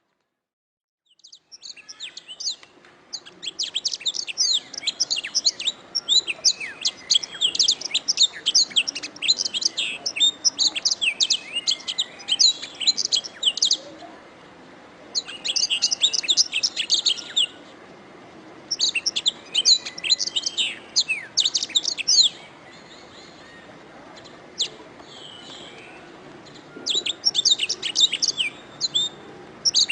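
Domestic canary singing in long phrases of rapid, high trills and chirps. The song begins about a second and a half in, with a few pauses between phrases, over a faint steady hiss.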